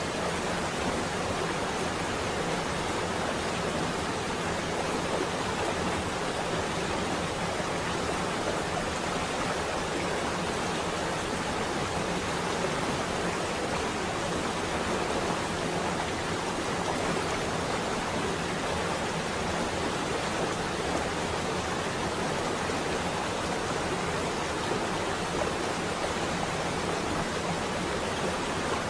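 Steady rain falling against a window, an even hiss.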